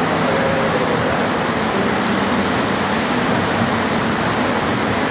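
Steady rain, an even hiss of falling water.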